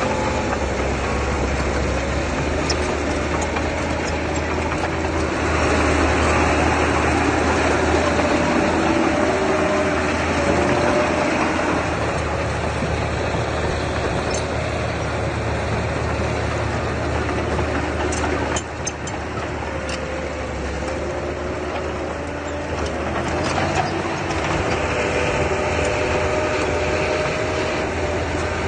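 Diesel engine of heavy earthmoving machinery running steadily. Its pitch wavers slightly, and it grows louder about five seconds in, drops briefly past the middle, then rises again near the end.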